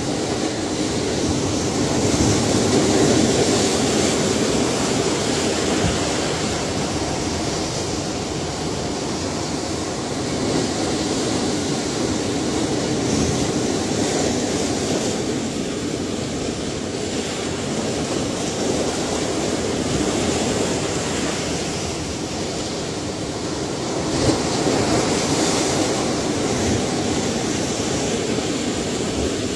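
Ocean surf: a continuous wash of waves breaking and rolling in, swelling and easing every few seconds.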